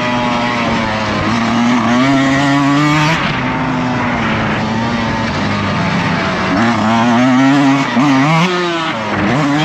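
Dirt bike engine revving under load. Its pitch repeatedly climbs and drops as the throttle opens and closes and the rider shifts gears, with several quick rises in the second half.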